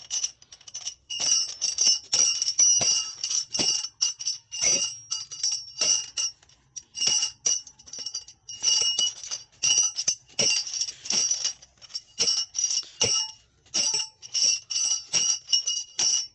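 A small bell rung over and over in quick, uneven strikes, each ringing at the same few high pitches; the ringing stops abruptly at the end.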